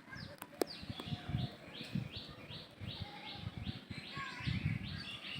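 A bird calling in a fast, even series of short notes, each falling in pitch, about three a second, with low gusty rumbling noise underneath.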